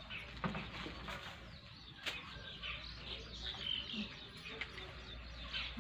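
Small birds chirping in short calls, with one sharp click about two seconds in.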